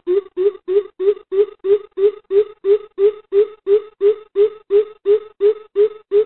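Greater coucal giving its deep hooting call: an even run of about three low 'boop' notes a second. This is a recorded coucal lure call of the kind played to draw coucals to a trap.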